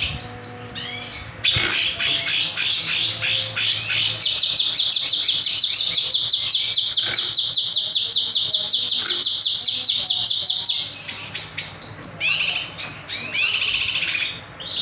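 Kinoy songbird singing loudly in rapid chattering phrases of sharp repeated notes. In the middle comes one long even trill of about seven seconds, followed by more quick bursts near the end.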